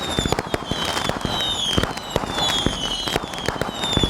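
Dense crackling and popping with a high whistle that falls in pitch again and again, starting abruptly.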